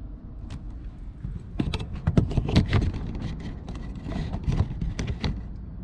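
A quick, irregular run of clicks, taps and knocks from objects being handled, over a steady low hum.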